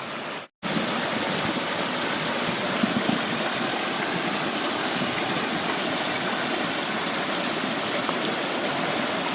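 Stream water rushing steadily; it drops out for an instant about half a second in, then comes back louder.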